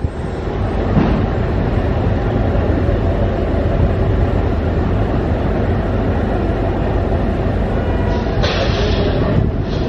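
Diesel locomotive hauling a passenger train slowly over pointwork: a steady low engine rumble mixed with wheel-on-rail noise and a few faint clicks. A brighter hiss comes in near the end.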